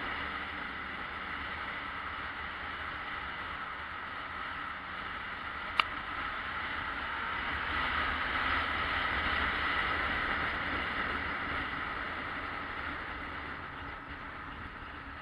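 Yamaha XJ600S Diversion's air-cooled inline-four running steadily under way, mixed with wind and road noise, swelling slightly in the middle and easing off near the end. A single sharp click about six seconds in.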